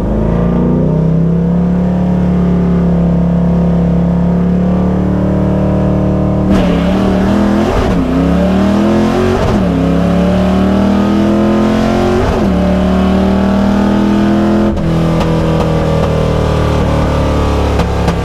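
1989 Mustang GT's 5.0-litre V8 at full throttle on a drag-strip pass, heard from inside the car. The engine note climbs, dips sharply a few times as gears are changed, then drops to a lower steady note about 15 seconds in as the throttle comes off.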